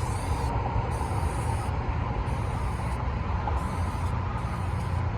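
Aerosol can of washable chalk spray paint hissing in about five short bursts, each under a second, over a steady low rumble.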